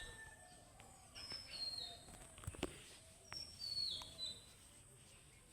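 A songbird singing a short, high phrase of falling whistled notes, repeated about every two seconds. A few sharp clicks sound with it, the loudest about halfway through.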